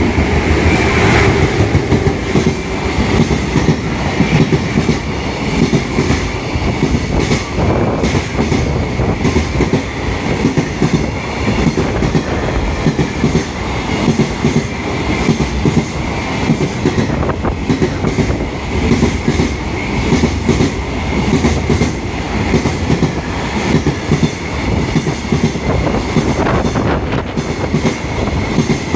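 Train running through a station, a steady loud rumble with wheels clicking over rail joints and a faint high wheel squeal.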